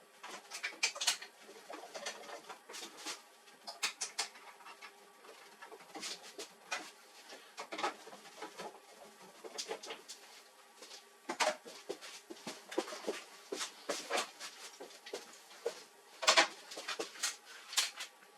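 Irregular light clicks and taps of hands working on the printer's plastic and metal parts, coming in uneven clusters, with a sharper cluster about sixteen seconds in.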